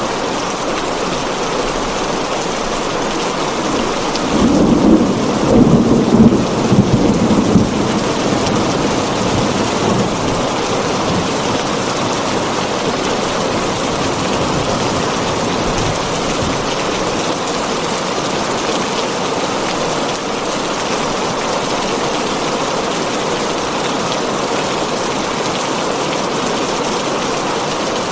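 Heavy rain falling steadily on a tin roof, with a rumble of thunder about four seconds in that lasts a few seconds and dies away.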